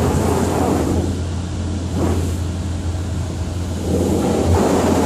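Automatic car wash equipment working over the car during the rainbow-soap stage, a steady rushing wash noise heard from inside the car's cabin over a constant low hum.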